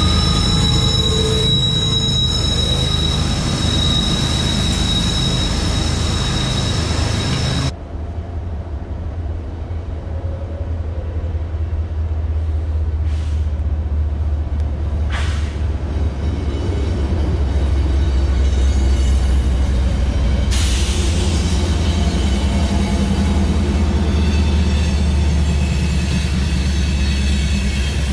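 BNSF coal train passing close: steel wheels rolling over the rails with a steady high-pitched wheel squeal over a heavy rumble. The sound drops suddenly about a third of the way in to a lower rumble, and the rolling and squeal of the coal hopper cars return about 20 seconds in.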